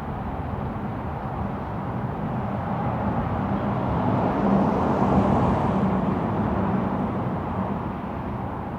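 A road vehicle passes by, its engine and tyre noise growing to a peak about five seconds in and then fading, over the steady hum of city traffic.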